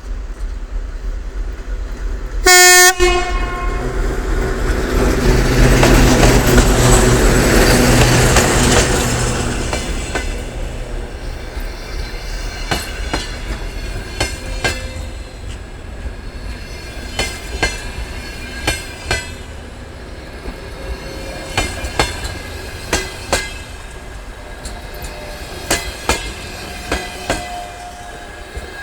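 TEP70 diesel passenger locomotive sounds its horn in one short blast, then passes with a loud engine rumble that peaks and fades over several seconds. The passenger coaches follow, their wheels clicking steadily over the rail joints.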